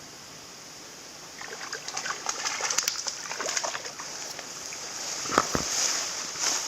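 River water running steadily, then irregular splashing and slapping from about a second and a half in, with a sharper knock about five seconds in: a hooked grayling thrashing at the surface as it is played in.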